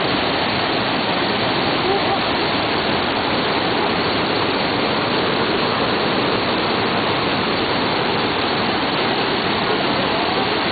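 Water pouring down a waterfall over 30 m high: a steady, dense rush with no change in level.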